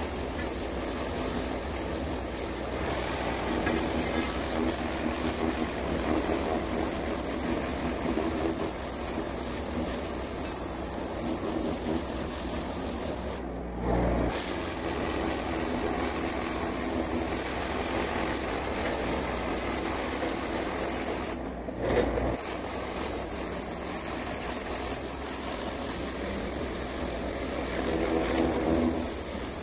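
High-pressure water jet blasting barnacles and fouling off a ship's hull, a steady hissing spray over the hum of the pump's engine. The spray stops for a moment twice, with a short low thump each time.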